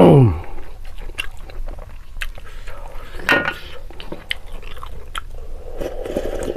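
Close-up eating sounds: chewing rice and meat with small mouth clicks and smacks, with fingers picking rice off a steel plate. It opens with a short, loud falling-pitch sound, and near the end there is a softer sipping noise as broth is drunk from a bowl.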